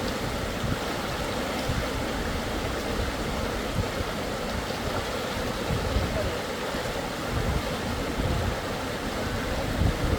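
Steady rush of river water flowing over rapids.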